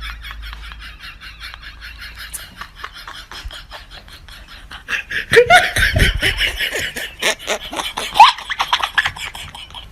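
People laughing: a rapid, steady run of ha-ha pulses that grows into louder, uneven bursts of laughter about halfway through, with a couple of short rising cries in them.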